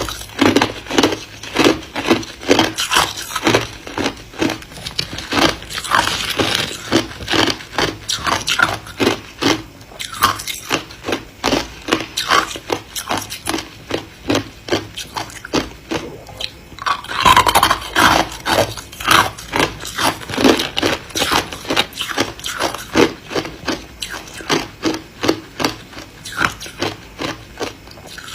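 Ice being chewed close to the microphone: a steady run of sharp crunches, about two to three a second, with a louder burst of crunching about two-thirds of the way through.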